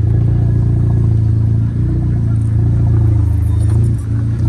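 A car engine running steadily at an even, low pitch, loud and close. The sound dips briefly about two seconds in and again near the end.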